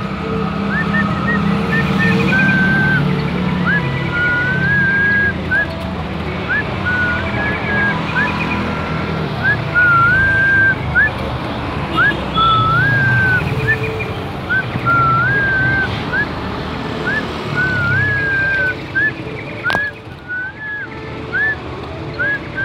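A caged songbird whistling clear short rising notes and wavering phrases, about one a second, over a steady low rumble of road traffic.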